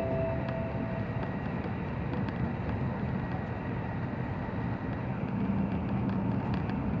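Steady running noise of a Sanyo Shinkansen train at speed on an elevated viaduct, heard inside the passenger cabin. The last note of a short tune ends about a second in, and a low steady hum joins about five seconds in.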